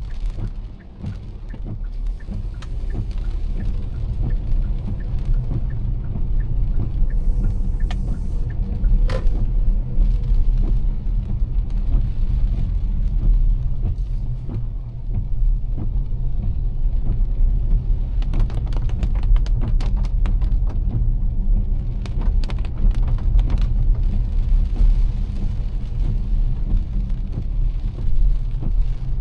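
Car driving in heavy rain: a steady low rumble of engine and tyres on the wet road. Rain noise sits over it, with flurries of quick sharp ticks about two-thirds of the way through.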